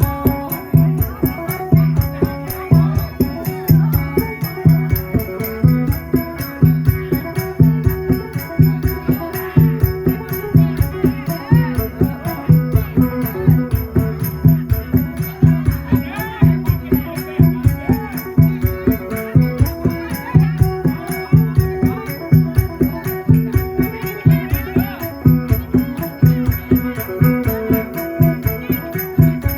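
Isan phin (plucked lute) playing fast, repeating figures over a held drone, with a steady, even percussive beat like a rattle or shaker keeping time.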